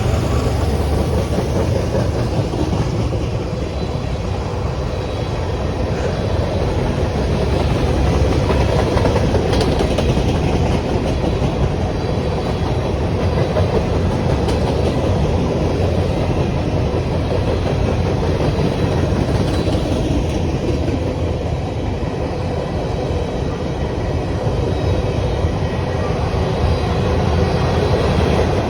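Freight train cars rolling past at close range: a steady rumble of steel wheels on the rails, with clicking over the rail joints.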